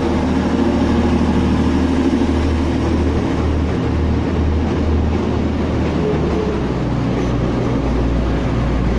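Diesel multiple unit's engines running as it pulls out of the platform, a steady low drone whose pitch shifts a little past halfway.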